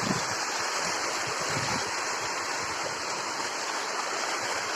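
Steady rush of water from a rain-swollen hillside waterfall in heavy rain.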